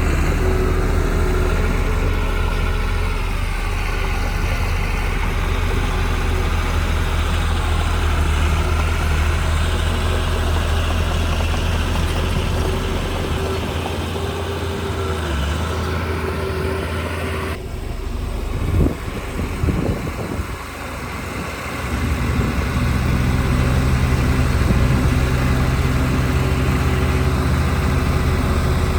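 Heavy diesel construction machinery running steadily, a bulldozer or dump truck engine. A little past halfway the sound changes abruptly, with a few seconds of uneven rumbling before the steady engine sound resumes.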